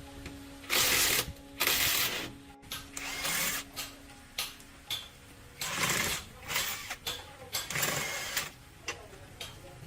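Work-tool noise from a heavy truck tyre change: about six short, separate bursts, each about half a second long, the last few coming faster.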